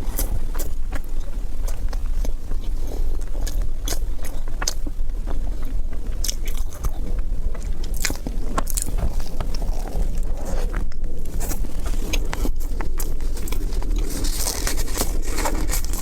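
Close-up chewing and biting into crunchy food, with many short sharp crunches. A hissing rustle comes in near the end.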